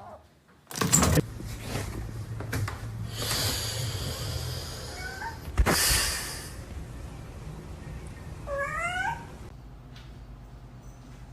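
A house cat gives a short rising meow near the end, with a fainter call a few seconds earlier. A sudden loud bang about a second in and a sharp knock midway stand out over a busy, noisy background.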